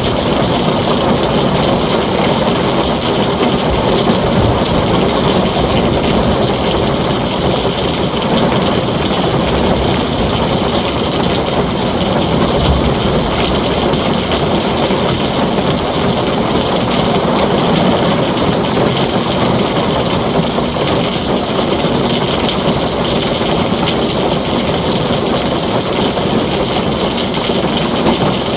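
Heavy rain pouring steadily on a tin roof, a dense, even wash of noise with no thunder.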